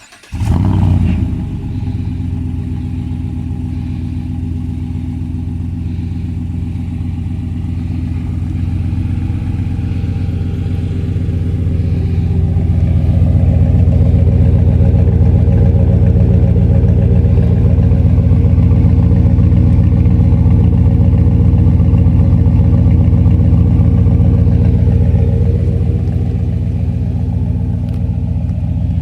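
A 2015 Chevy Silverado's 5.3-litre EcoTec3 V8 starts up through a Jones JT3030 turbine muffler, flaring briefly as it catches. It then settles into a steady idle that gets louder about ten to thirteen seconds in and holds there.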